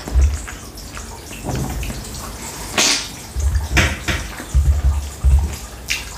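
Close-miked mouth sounds of a person eating khinkali (Georgian soup dumplings): wet chewing and lip smacks. There are sharp wet smacks about three seconds in, again near four seconds and near the end, with runs of low chewing thuds in the second half.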